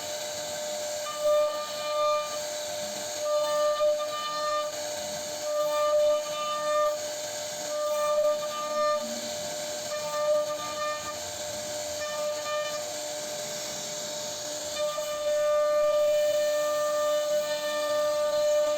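CNC router spindle whining at a steady pitch over the hiss of the bit cutting wood, with a higher tone that comes and goes about once a second as the cutter sweeps back and forth.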